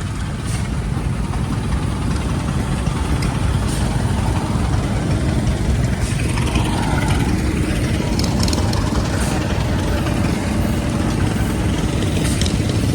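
A steam or gas show engine running steadily with a low rumble, with a few faint clicks over it.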